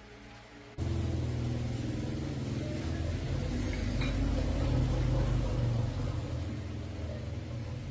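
Small single-cylinder Honda 110cc motorcycle engine running steadily, coming in abruptly and loud about a second in after a quieter hum, with light ticking over it.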